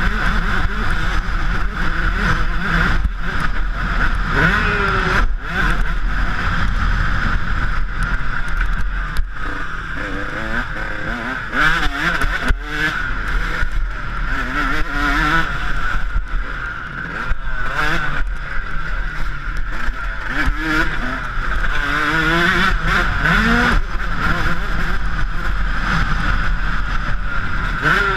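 Yamaha YZ125's two-stroke single-cylinder engine running under hard riding, its pitch rising and falling again and again as the throttle opens and closes.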